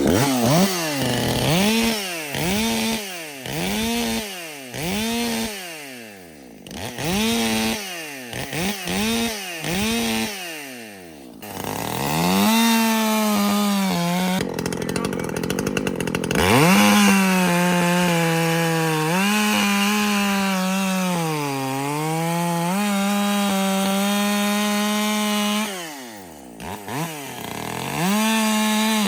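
Freshly ported Echo CS-620PW 60cc two-stroke chainsaw. It is blipped through about nine quick revs, checking that the bar and chain are oiling, then held at high revs and cutting into a log, its pitch dipping under load. It drops to idle near the end and revs up again.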